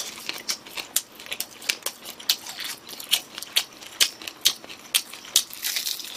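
Close-up chewing of crispy fried chicken: an irregular run of sharp crunching clicks, several a second.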